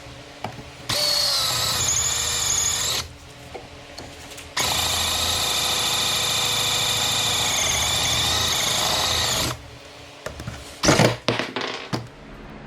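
An electric power tool's motor running in two bursts, one of about two seconds and one of about five, its whine dipping slightly as it works. Near the end come a few sharp knocks, the loudest sounds.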